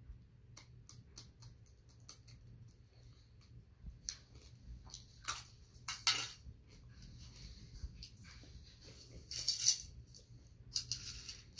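Chewing and crunching a dried, crumbly scorpion: small sharp crackles and clicks throughout, with a few louder crackling bursts around the middle and near the end.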